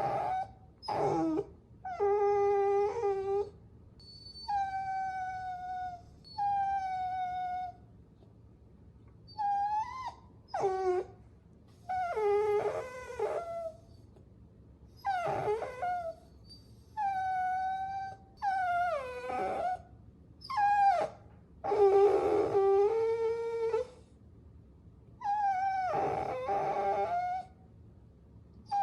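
Puppy whining: about a dozen high, drawn-out whimpering cries, each up to about two seconds long with short pauses between, some sliding down in pitch.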